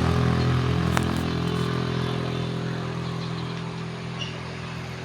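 A motor vehicle engine running steadily with a low hum, slowly fading; a single sharp click about a second in.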